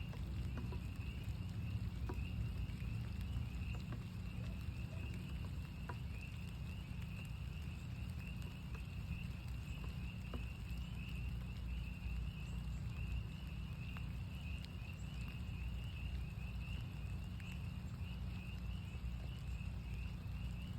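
A chorus of northern spring peepers, many frogs giving rapid overlapping high peeps without pause, over scattered raindrop taps and a steady low rumble.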